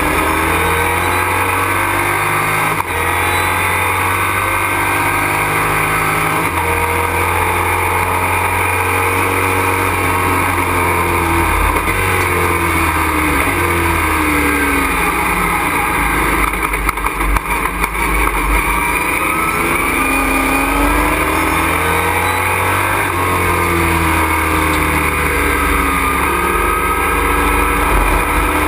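Race truck's engine heard from inside the cockpit, revving up through the gears and dropping back again and again at race pace. A little past halfway the sound briefly turns rough and uneven.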